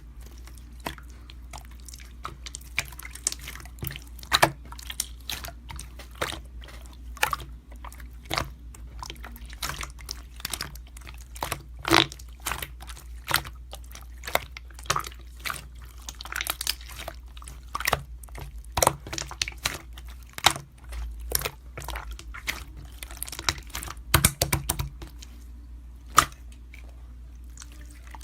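Sparse, irregular light clicks and taps over a low steady hum.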